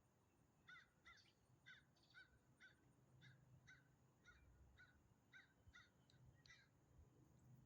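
A bird calling in a faint, fast series of about a dozen short, repeated calls, roughly two a second, starting about a second in and stopping near the end.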